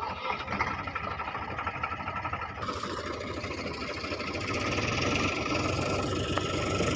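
Tractor diesel engine running with a steady low throb, growing louder and rougher about two and a half seconds in, as under load while pulling a stuck tractor.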